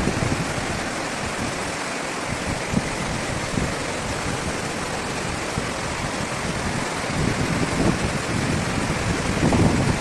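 Steady rush of water with wind buffeting the microphone, the low gusts growing stronger near the end.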